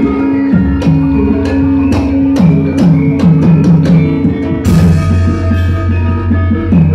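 Gamelan ensemble playing: metallophones and gongs ring under a run of drum strokes that drop in pitch. A bright crash sounds about five seconds in.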